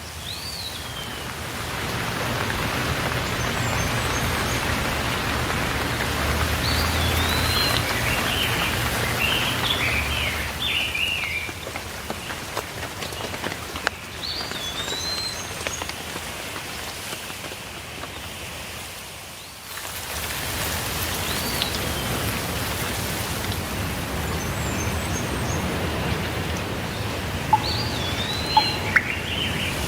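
Steady rainfall with birds chirping in short, repeated phrases every several seconds. The rain swells in about two seconds in and dips briefly shortly before the last third.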